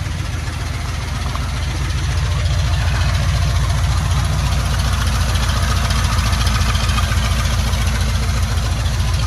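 Box Chevy's engine idling steadily while cold and warming up, a few minutes after a hard start from sitting unused. It gets a little louder about two seconds in.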